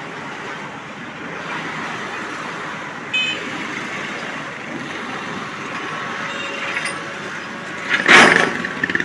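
Steady traffic noise from vehicles passing on the expressway, with a brief high horn toot about three seconds in and a loud rush from a vehicle passing close near the end.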